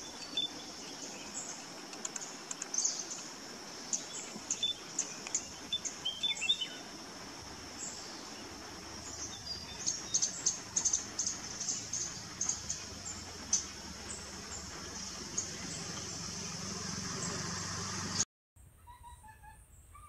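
Small forest birds chirping: many short, high chirps over a steady high drone. The sound cuts off abruptly near the end.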